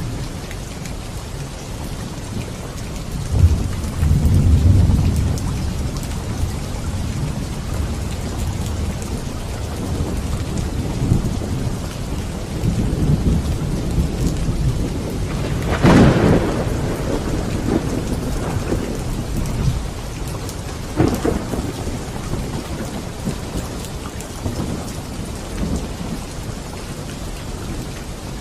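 Steady rain with thunder: a low rumble a few seconds in, a sharp thunderclap a little past halfway, and a smaller crack a few seconds after it.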